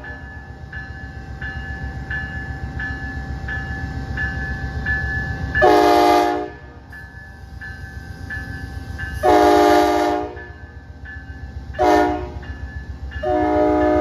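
Amtrak P42 diesel locomotive pulling out, its engine rumbling steadily under a bell that dings over and over. The air horn sounds four blasts: two longer ones, a short one, and a long one that runs on, in the long-long-short-long pattern of a grade-crossing signal.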